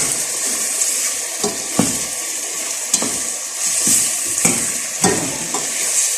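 Steady sizzling hiss from a pot of chicken tinola cooking on the stove, with a utensil knocking against the pot several times as it is stirred.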